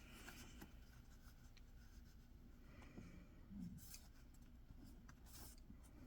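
Faint scratching of a pen writing on a book page: a few short strokes as letters are marked in the margin, the clearest about four and five and a half seconds in.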